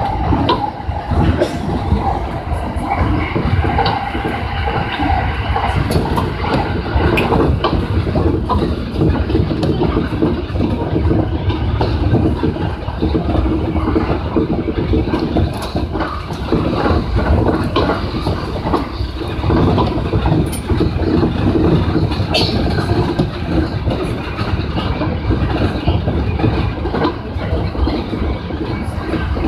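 Electric commuter train running at speed, heard from inside the front car: a steady rumble of wheels on the rails with a hum and frequent clicks.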